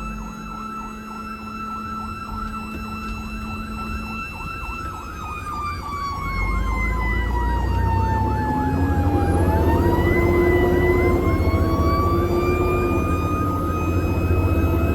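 Emergency vehicle sirens: a fast yelp warbling throughout, with a second siren tone that slowly drops in pitch and climbs back again. A truck engine rumble grows louder about six seconds in, as the sirens get louder and closer.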